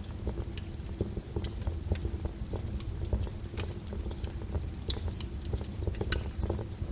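Wood fire crackling in a fireplace: irregular sharp pops and snaps over a low steady rumble of the flames, with a few louder pops about five and six seconds in.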